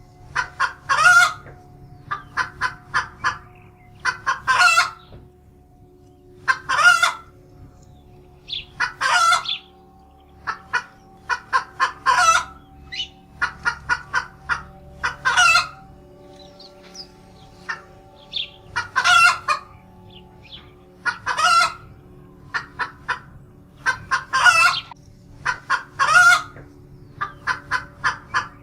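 Chickens clucking: runs of quick short clucks, each broken off every couple of seconds by a louder, longer call.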